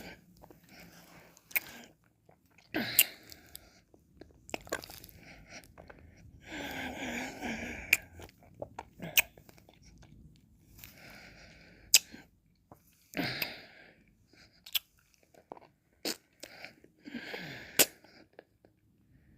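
Close-miked mouth sounds of eating ice cream: licking and slurping in patches of about a second, broken by about ten sharp wet mouth clicks.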